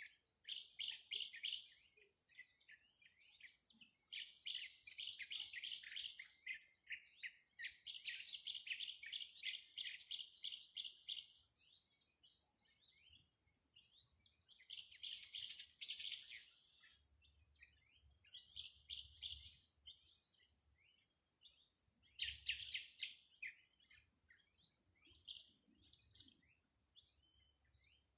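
Songbird singing: repeated phrases of fast, high trilled notes, each lasting one to three seconds, with short pauses between them. A harsher, buzzier phrase comes about halfway through.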